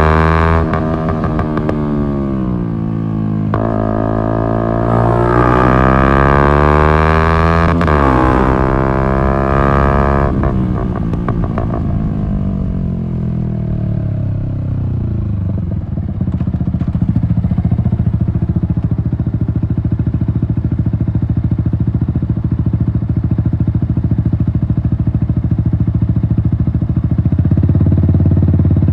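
Yamaha MT-125's single-cylinder four-stroke engine through an Akrapovic exhaust, revving up and down as it accelerates and changes gear for about ten seconds. It then slows and settles into a steady low engine note.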